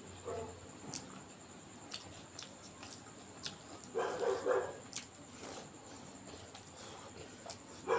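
A person eating with the mouth close to the microphone: scattered wet chewing and lip-smacking clicks. About four seconds in comes a short pitched vocal sound lasting about half a second, the loudest thing here, with two briefer ones near the start and the end.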